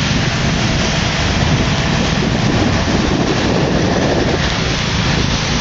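Steady rushing noise of a car driving in heavy rain on a wet road.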